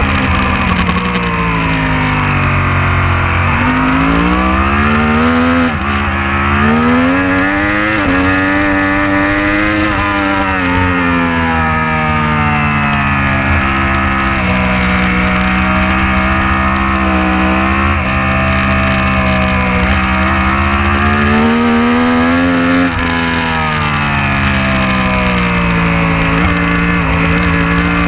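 Racing motorcycle engine at full race pace. Its pitch climbs and falls again and again with throttle and gear changes, with quick breaks in pitch at several shifts.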